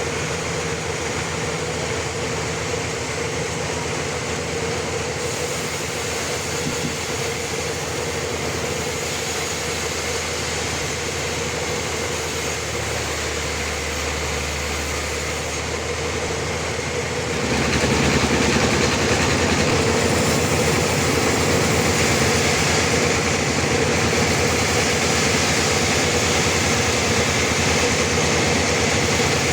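Band sawmill running steadily with a constant machine hum. A little over halfway through it steps up louder and brighter and stays that way.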